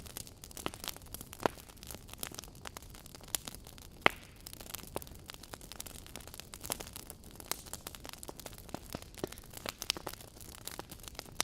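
Fireplace fire crackling: irregular sharp pops and snaps over a soft hiss, with one louder pop about four seconds in.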